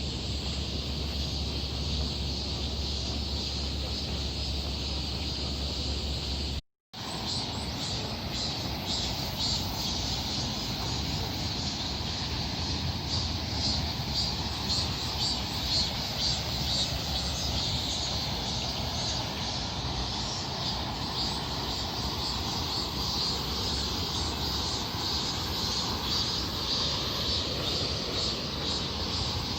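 A chorus of summer cicadas buzzing steadily with a fast flutter, over a low outdoor rumble. Near the end the drone of a passing aircraft grows in.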